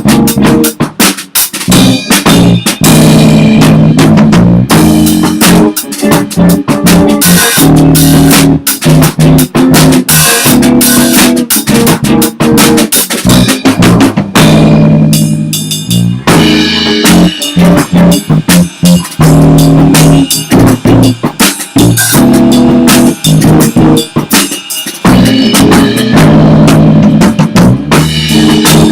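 Loud three-piece band playing an instrumental passage: a drum kit keeping a steady beat over bass and guitar, with no singing.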